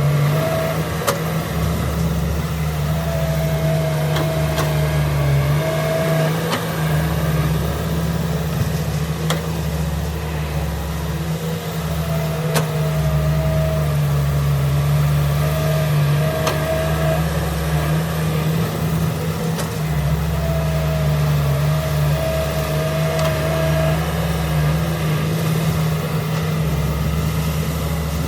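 Heavy earthmoving machine's diesel engine running under changing load, its note shifting every few seconds, with a higher whine that comes and goes and occasional sharp clanks.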